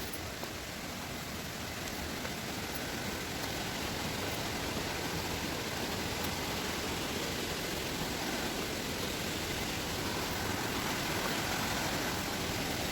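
Steady rush of falling water from a waterfall, an even hiss that grows gradually a little louder.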